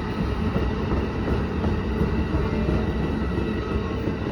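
Amtrak passenger train going by: a steady rumble of wheels rolling on the rails.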